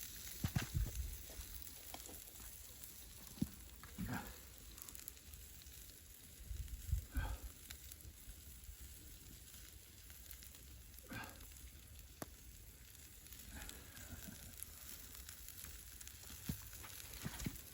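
Wild boar kebabs sizzling over a campfire, a steady hiss with scattered crackles and clicks and a few low bumps near the start and around seven seconds in.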